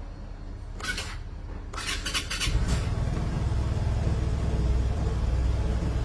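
Vespa scooter engine started with a brief crank and catching about two and a half seconds in, then idling steadily: it runs on the newly programmed key.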